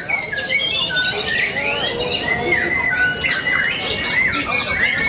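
Many caged songbirds singing at once: a dense, continuous tangle of overlapping whistles, chirps and trills.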